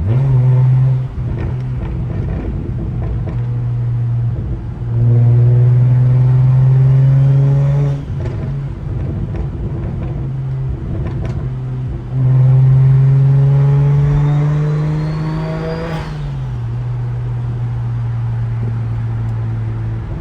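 Single-turbo BMW 335i's N54 inline-six, loud and raspy through its exhaust, cruising with a steady drone and pulling hard twice, each pull a few seconds long with rising pitch and a thin climbing whistle; the second pull cuts off sharply about two thirds of the way in as the throttle closes, then the engine settles back to cruising.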